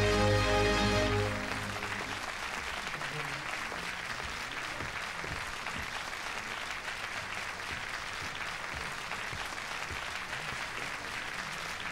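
Music ends about a second in, then a large crowd applauds steadily.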